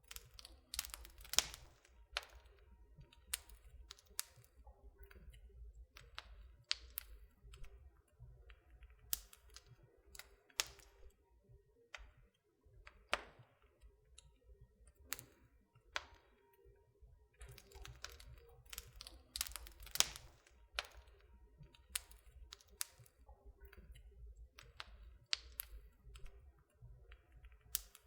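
Wood fire burning in a fireplace: irregular sharp crackles and louder pops, several a second, over a faint steady low rumble.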